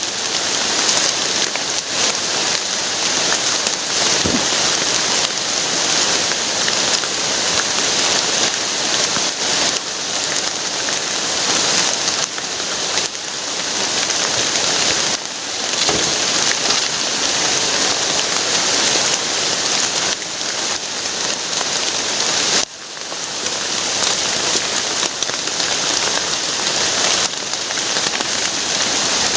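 Heavy rain falling steadily, a dense even hiss of drops that dips briefly about three-quarters of the way through.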